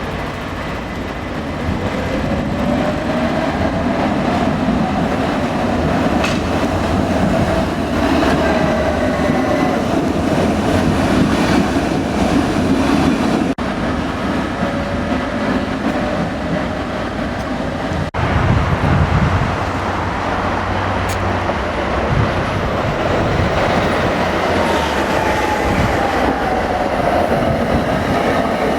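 Trams running on street track: a steady rolling rumble with a whine that rises and falls in pitch as they accelerate and slow. The sound cuts off abruptly twice, between shots.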